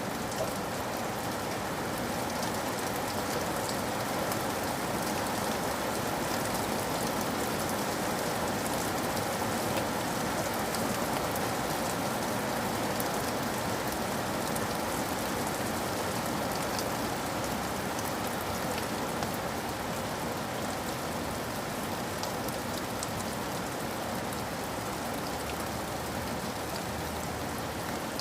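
Steady rain falling, an even patter of drops on a surface with no change.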